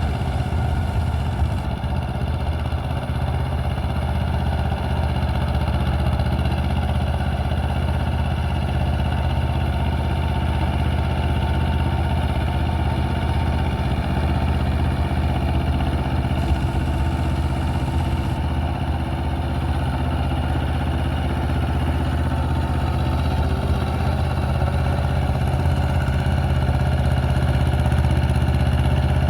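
Mahindra Jivo 245 DI tractor's diesel engine running at a steady speed while working a rotavator.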